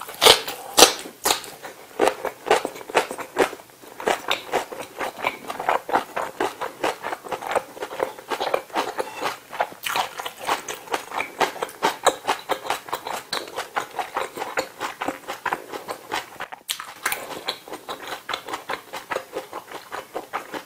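Close-miked eating sounds: a couple of loud crunching bites into fried chicken near the start, then steady, wet chewing of spicy tteokbokki rice cakes.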